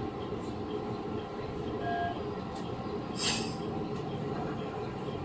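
Interior noise of a JR 115-series electric train car: a steady rumble and hum from the car's equipment and running gear, with one short burst of compressed-air hiss a little past three seconds in.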